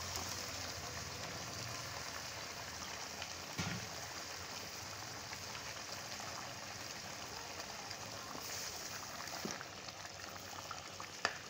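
Chicken and potatoes sizzling steadily in hot oil in a cooking pot, with a faint knock at about three and a half seconds in and again near the end.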